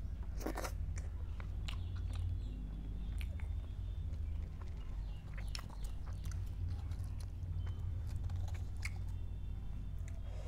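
Close-miked chewing and mouth sounds of someone eating chicken in butter masala gravy, with many scattered wet clicks and smacks, the strongest about half a second in. A steady low hum runs underneath.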